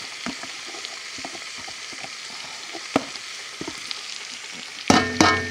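Chopped onions, bell peppers and smoked sausage sizzling in a skillet at medium heat, with small scraping clicks of a spatula stirring them. Near the end, louder knocks with ringing tones cut in.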